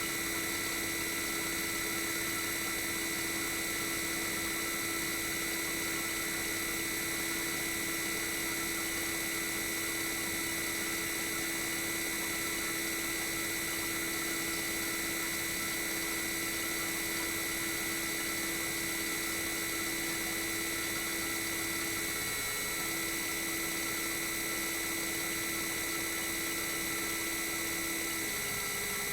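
Toshiba twin rotary inverter compressor (DA91A1F-42F) of a RAS-285LADR outdoor unit running steadily: a hum with high, steady inverter whine tones. A lower tone breaks off briefly about 22 seconds in and steps up to a slightly higher pitch about a second before the end.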